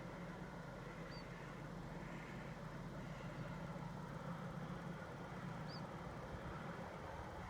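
A faint, steady low engine hum that holds without change, with two brief bird chirps over it, one about a second in and one near the end.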